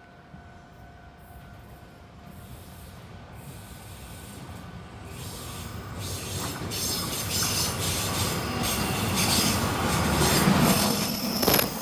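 Two Taiwan Railway electric multiple-unit local trains, an EMU800 and an EMU700, drawing near and passing on adjacent tracks. The sound of wheels on rail grows steadily louder, with sharp clicks from the wheels over the rails from about five seconds in, and is loudest near the end.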